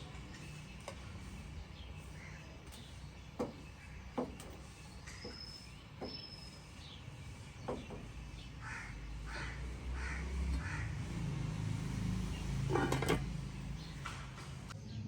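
A crow cawing, a quick run of four caws a little past halfway, over a low rumble, with a few sharp knocks scattered through.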